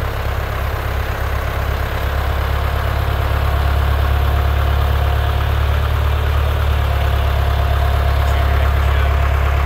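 A heavy engine running steadily at idle, getting a little louder about three seconds in.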